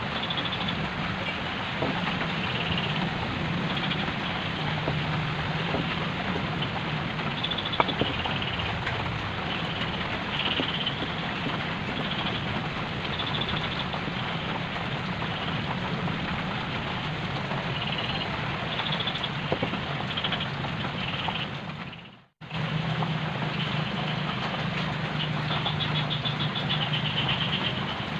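A motor running steadily: a constant low hum under broad noise, with faint short high chirps scattered over it. The sound drops out sharply for a moment about three-quarters of the way through, then carries on.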